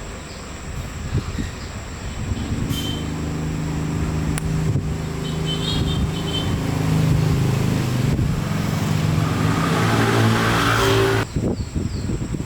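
Honda Win 100's small single-cylinder four-stroke motorcycle engine running and being revved, its pitch rising in the later seconds, then cutting off suddenly near the end.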